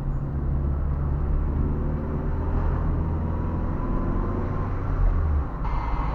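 Car engine and road noise heard from inside a moving car: a steady low drone that changes character a little after five seconds in.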